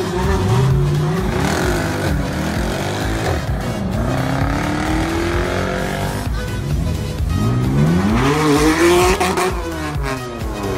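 A sports car engine revving hard three times, each rev a long rise in pitch, with tyre squeal as the car pulls away.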